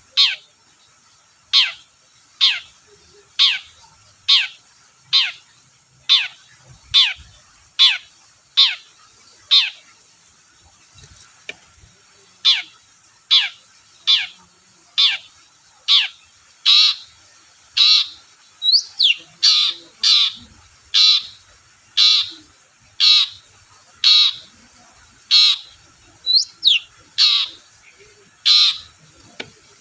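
Long-tailed shrike (cendet) giving a long series of short, harsh downward-sweeping calls, about one a second at first and coming faster after about halfway, with a few short rising notes mixed in.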